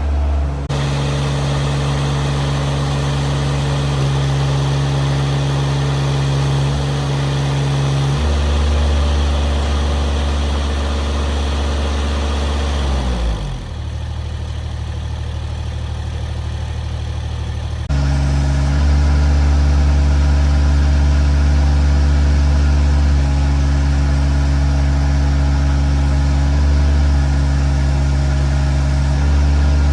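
Heavy machinery engine running steadily. About halfway through its pitch slides down and the sound drops quieter for a few seconds, then it runs loudly and steadily again.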